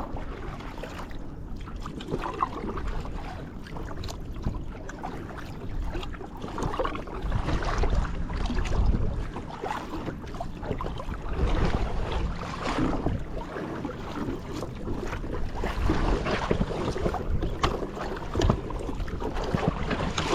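Kayak paddles dipping and splashing in calm water, in uneven swells every couple of seconds, with wind buffeting the microphone.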